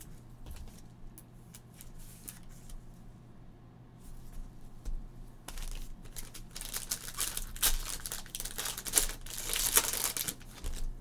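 Trading card box and pack being opened: a few light clicks of handling, then about six seconds of crinkling and tearing of the packaging, getting louder toward the end.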